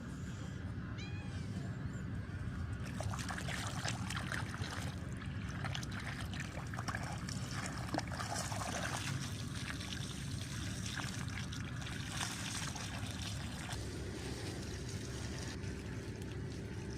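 A cat meows once about a second in. Then comes a dense, crackly trickle and splash of water over a steady low rumble.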